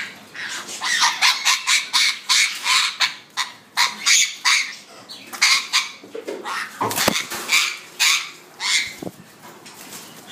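Young birds calling, many short calls in quick succession, with a brief low knock about seven seconds in.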